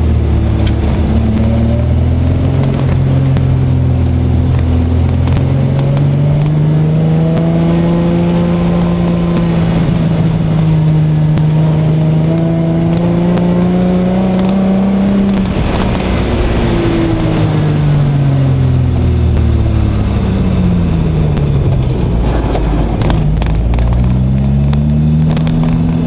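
Holden VN Commodore 3.8-litre V6 in a Datsun 1200 ute, heard from inside the cab while driving, with road noise underneath. The engine note climbs slowly through a long pull, falls away for several seconds about two-thirds in as the ute slows, then rises again near the end as it accelerates.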